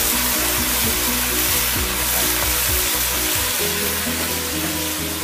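Pieces of fish sizzling steadily as they fry in very hot oil in a heavy pot, with background music playing over it.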